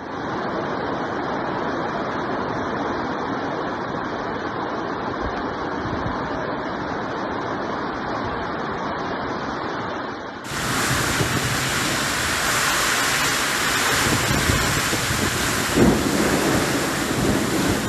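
Storm wind and heavy rain making a dense, steady rushing noise, with wind buffeting the microphone. About ten seconds in it changes abruptly to a brighter, louder rush, and there is a short thump near the end.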